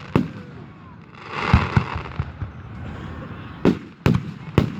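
Aerial fireworks shells bursting: a sharp bang right at the start, a longer, denser burst about a second and a half in, then three quick bangs near the end.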